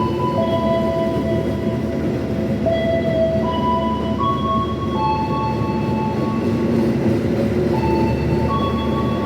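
Train running steadily, with a slow melody of held tones that changes note about once a second playing over it.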